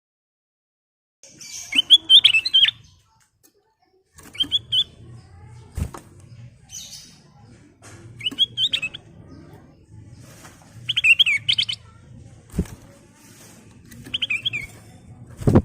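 Kutilang emas bulbul singing short, bubbly whistled phrases, one every two to three seconds. Three sharp clicks fall between the phrases, the loudest right at the end, over a faint low hum that starts about four seconds in.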